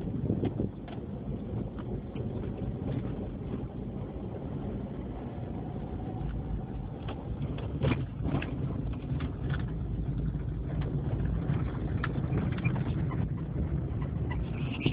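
Steady low rumble of a car being driven, heard from inside the cabin, with a few faint clicks and knocks.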